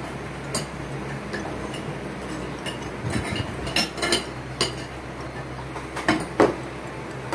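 Spoons and forks clinking against plates and a metal serving bowl while people eat, in scattered irregular clinks, a few close together near the middle and near the end.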